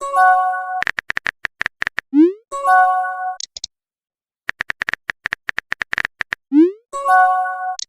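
Messenger-app sound effects in a repeating cycle: a quick run of keyboard typing clicks, a short rising swoop, then a steady chord-like message chime. The cycle comes round about twice, with a brief pause in the middle.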